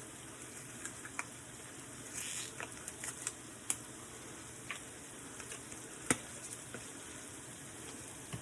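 Mushrooms sizzling steadily in a frying pan, with scattered light clicks and knocks; one sharp knock about six seconds in is the loudest sound.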